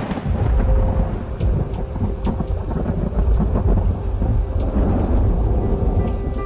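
Thunder rolling over heavy rain: a loud low rumble that sets in suddenly and keeps going, with the patter of rain above it.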